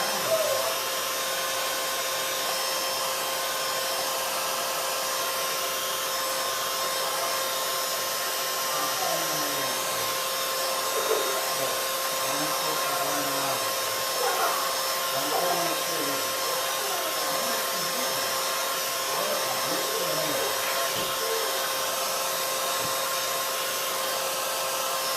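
Craft heat tool blowing steadily, its fan motor humming at an even pitch, drying the wet mixed-media paint layers.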